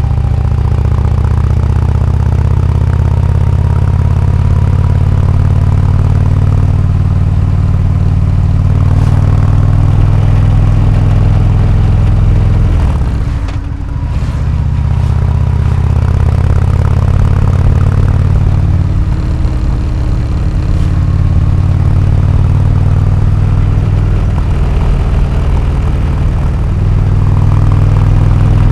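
Harley-Davidson Road King Classic's Twin Cam 103 V-twin running loud and steady through an aftermarket AMC HD4 exhaust, with a brief drop in the engine note about 13 seconds in.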